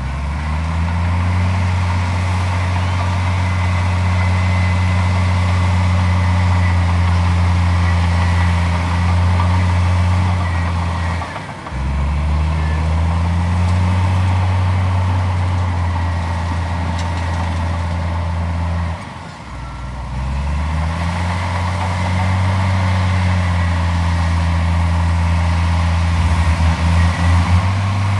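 Heavy diesel engine of earthmoving machinery running hard under load. It eases off briefly twice and revs straight back up.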